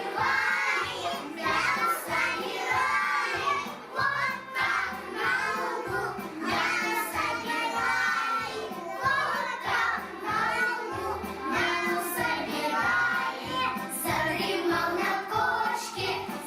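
Children's song: children singing along with music that has a steady beat.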